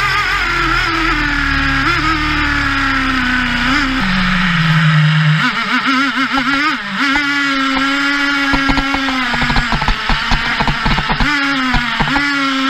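Traxxas T-Maxx 3.3 nitro two-stroke engine running and revving, its pitch wavering with the throttle. About four seconds in it drops to a lower, steadier note, then revs back up. Through the second half a rapid clatter of knocks runs over the engine.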